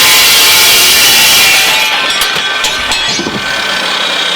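Dry-cut metal saw cutting through 1 by 3/8 steel flat bar with a loud hiss that ends a little under two seconds in. The blade then keeps spinning with a steady whine and a few clicks, coasting down slowly; the owner suspects its electric brake has stopped working.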